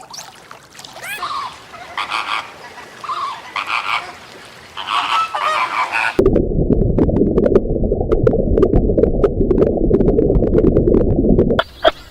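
Geese honking, a series of short calls, then about six seconds in an abrupt cut to a loud, muffled rumbling noise with sharp ticks that lasts over five seconds. Near the end short, sharp calls begin.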